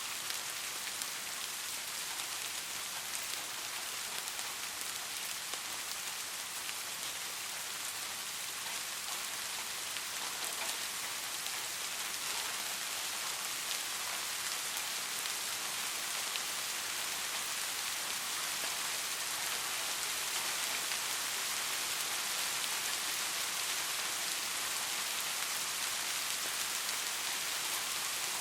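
Steady soft rain falling on a surface, an even hiss with the faint patter of single drops and no thunder.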